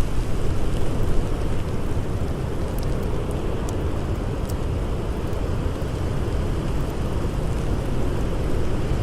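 Blizzard wind blowing steadily with a deep rumble, and a few faint crackles from a campfire.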